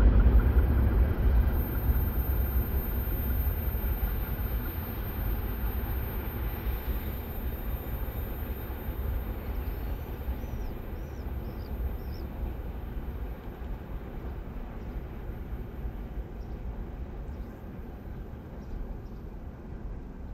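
Low rumble of a train rolling away along the rails, fading steadily as it recedes.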